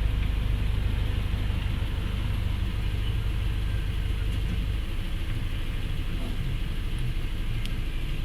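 A motor vehicle's engine idling with a steady low rumble, which eases about halfway through.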